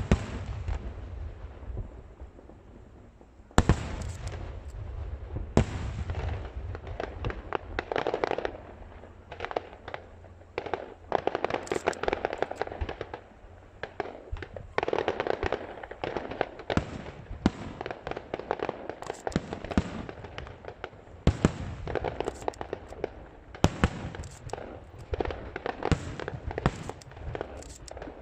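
Aerial fireworks display: shells bursting overhead with sharp bangs at irregular intervals and stretches of dense crackling. It is quieter for the first few seconds, then a loud bang opens a steady run of bursts.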